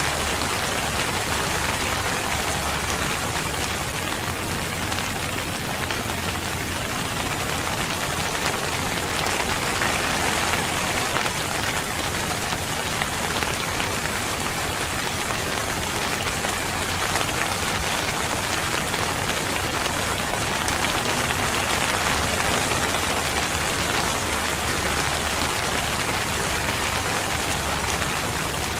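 Steady rain falling, an even patter of drops that keeps up at the same strength throughout.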